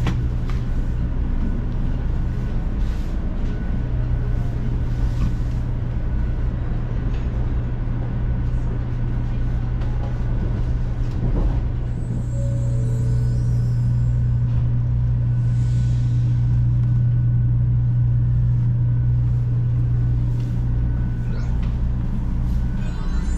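Cabin noise inside a 500 Series Shinkansen bullet train: a steady low rumble and hum from the running train, growing a little louder midway through.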